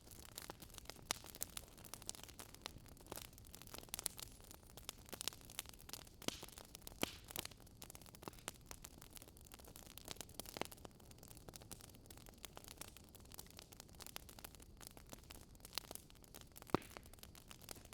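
Wood fire crackling faintly: irregular sharp pops and snaps over a soft steady hiss.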